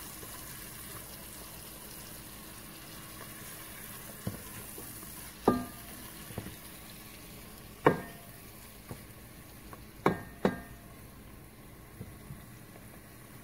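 Onions, garlic and spices frying in oil in a rice cooker pot with a faint steady sizzle. A spatula stirs them and knocks against the pot about five times, the louder knocks ringing briefly.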